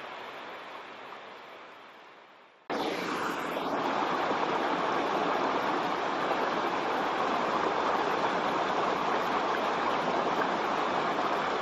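Waterfall's rushing water fading down over the first few seconds, then cutting sharply to a louder, steady rush of falling water a little under three seconds in.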